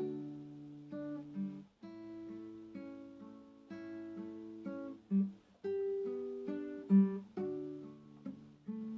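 Acoustic guitar playing slowly, plucked notes and chords ringing one after another with short pauses between phrases.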